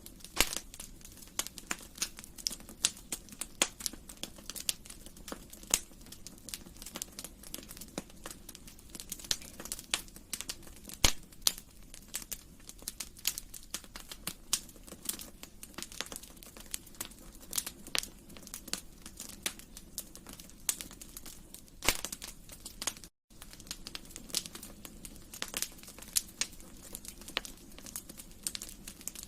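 Wood fire in a fireplace crackling, with frequent irregular sharp pops, one louder pop about eleven seconds in. The sound cuts out for a split second about two-thirds of the way through.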